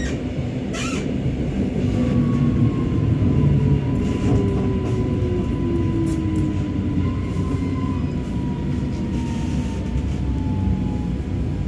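Electric commuter train heard from inside the carriage: a steady rumble of wheels and running gear, with a motor whine that falls slowly in pitch as the train slows into a station.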